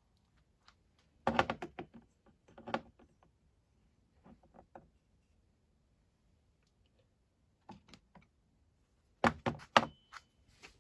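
Small metal carburettor parts and hand tools clicking and knocking on a workbench as the carb is taken apart, in several short clusters of clatter with pauses between.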